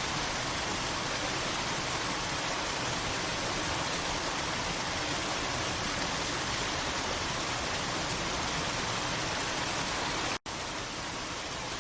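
Steady rushing of water in a forest, an even hiss with no separate drops or splashes standing out. It cuts out for an instant about ten seconds in and comes back slightly quieter.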